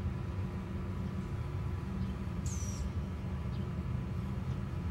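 Outdoor ambience: a steady low rumble, with one high, falling bird call about halfway through and a few faint short chirps.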